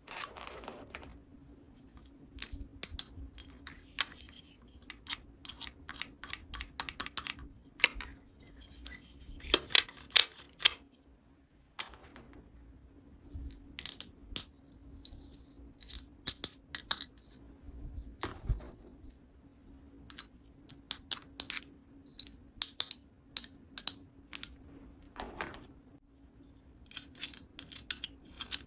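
Small plastic toy pieces being handled and set down, making many sharp, irregular clicks and taps in quick clusters, over a faint steady hum.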